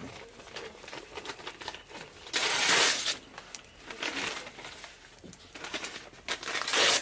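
Firewood and kindling in a mangal, with irregular crackling clicks throughout. There are two louder rustling bursts, one about two and a half seconds in and one near the end.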